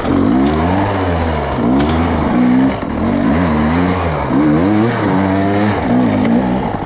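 Off-road vehicle engine revving up and down repeatedly under throttle, its pitch rising and falling several times.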